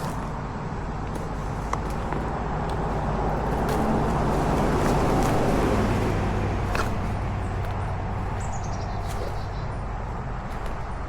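A motor vehicle passing on a nearby road, growing louder to a peak about halfway through and then fading away. A short run of high bird notes is heard near the end.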